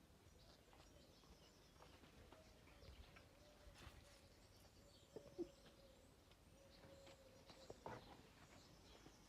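Near silence: faint background with a few soft ticks, the clearest about five seconds in and near the end.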